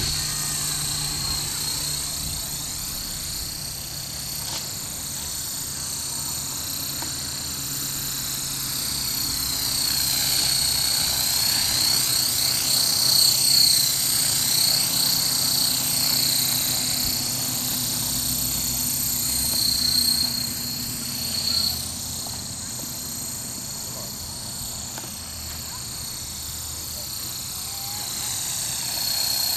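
Modified Esky Honey Bee King 2 RC helicopter in flight, its 3900kv brushless motor and gears giving a steady high whine over the rotor hum. It grows louder and softer as the helicopter moves about.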